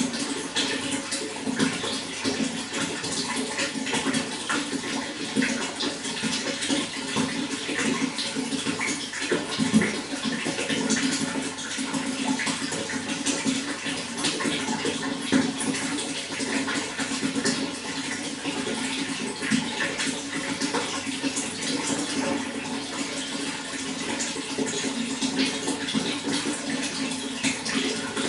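Running water flowing steadily, with many small splashes and gurgles through a continuous rush.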